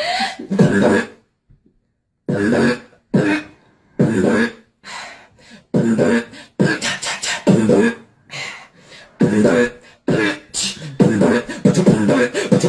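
A person beatboxing: rhythmic drum sounds and vocal noises made with the mouth, with a short pause about a second in, then a denser, more continuous run.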